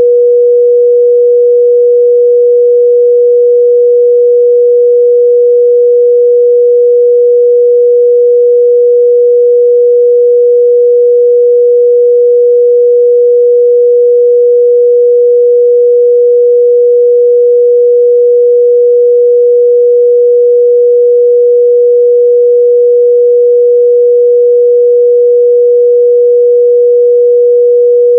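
A steady, pure 484 Hz sine-wave test tone, held at one constant pitch and level.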